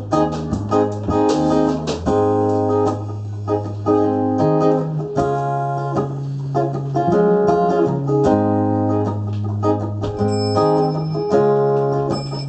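Live band playing an instrumental break: strummed guitar chords over a bass line, with keyboard, no singing.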